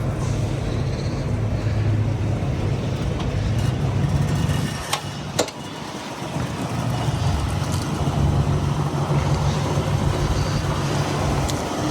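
1977 Ford Ranchero GT's V8 engine running at low speed as the car is driven out. The engine sound eases briefly about five seconds in, with two sharp clicks.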